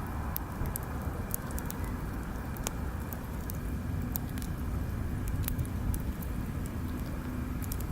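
Wood bonfire crackling, with many sharp irregular pops, over a steady low rumble.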